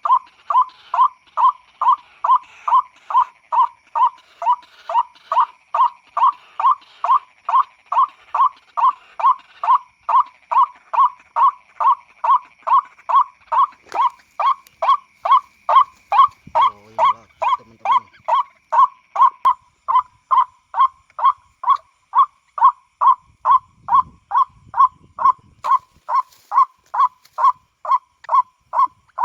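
White-breasted waterhen (ruak-ruak) lure call played through a speaker: a short pitched note repeated evenly about twice a second, unbroken throughout.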